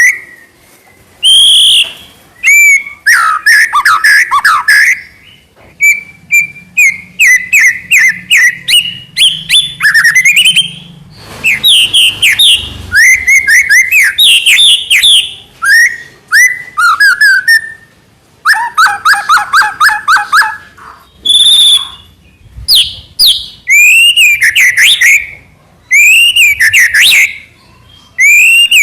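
Young white-rumped shama (murai batu) singing loudly and vigorously: phrases of clear whistles, slurred sweeping notes and fast trills, one to three seconds long, with short pauses between them.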